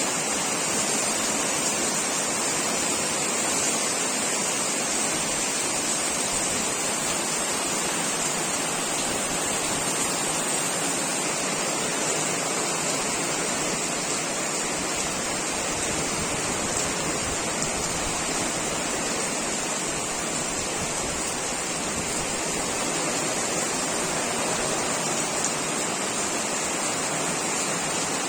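Heavy rain falling steadily in a downpour: a dense, even hiss with no breaks.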